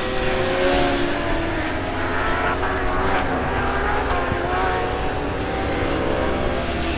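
Several superbike racing motorcycles running at high revs, their engine notes overlapping and gliding up and down.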